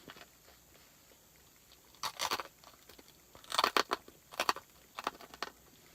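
A crispy snack being bitten and chewed, in four bursts of crunching that start about two seconds in.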